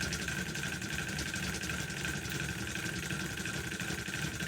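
Small electric motors of battery-powered toy trains running: a steady whir with a high whine and rapid, even gear ticking.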